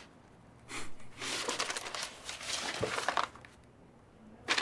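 Paper rustling and crinkling for about three seconds, as if documents are being handled, then it stops.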